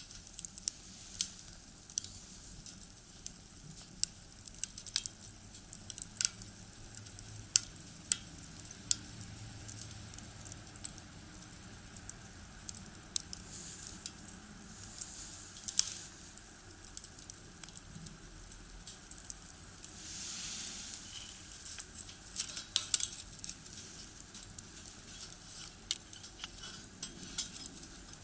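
Firewood burning in a box stove, crackling with irregular sharp pops over a low steady hiss.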